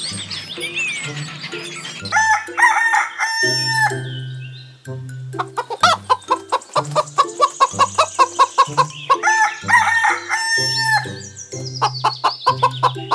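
Chickens calling: a rooster crows in long held calls and hens cluck in quick repeated runs, starting about two seconds in. A low pulsing beat of background music runs underneath.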